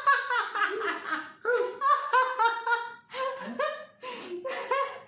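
People laughing, a long run of repeated laughs broken by a few short pauses.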